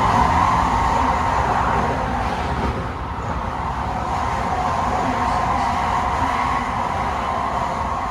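Tsukuba Express train running steadily: a continuous rumble with a faint high whine.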